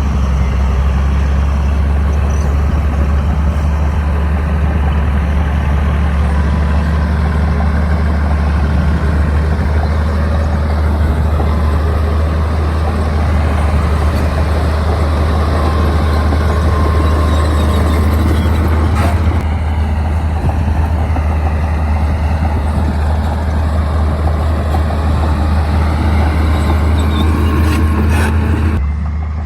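A bulldozer's diesel engine running steadily with a deep drone, with a faint knock about two-thirds of the way through.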